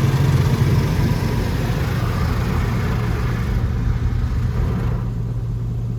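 Touch-free car wash running, heard from inside the car: a hiss of spray and air over a steady low hum. The hiss dies away about four to five seconds in, leaving the hum.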